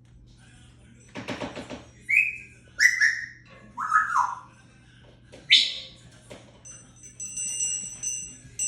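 African grey parrot calling and whistling. There is a harsh rasp about a second in, then several short whistles that glide down in pitch, a sharp call around the middle, and a high, steady tone near the end.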